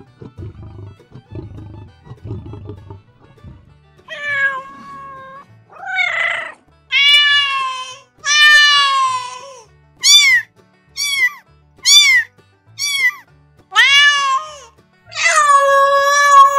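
Cat meowing repeatedly: about nine loud meows, some short and some drawn out, starting about four seconds in and falling in pitch at their ends. A low rumbling growl comes before them in the first few seconds.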